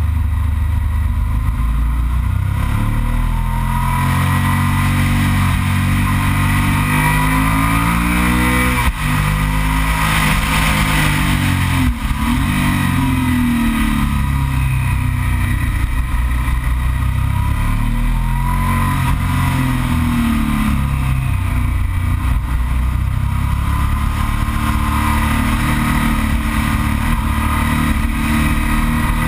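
Yamaha TDM 900's parallel-twin engine ridden through a series of bends, its revs rising and falling over and over as the rider accelerates out of each curve and rolls off into the next. There are brief sharp breaks in the engine sound about nine and twelve seconds in.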